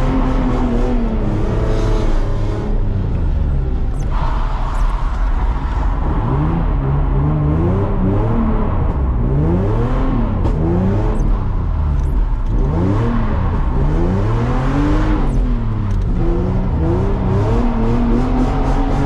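Nissan 350Z's V6 engine revving hard and repeatedly, its pitch climbing and dropping every second or two as the throttle is worked through drifts.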